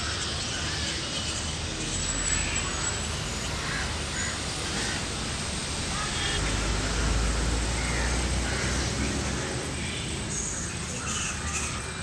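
Birds calling on and off over steady outdoor background noise, with faint voices.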